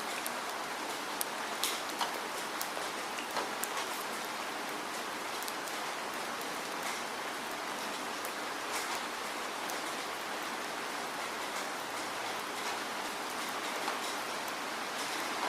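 Steady rain falling: an even hiss with scattered louder drop ticks, more of them in the first few seconds.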